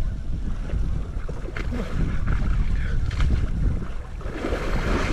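Wind rumbling on the microphone, with river water splashing and sloshing around a person wading in it; the splashing thickens about four seconds in.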